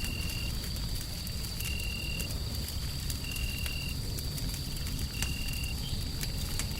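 Wood fire crackling with scattered sharp pops over a steady low rumbling noise bed. A constant high whine runs throughout, and a short high chirp-like tone repeats about every one and a half to two seconds.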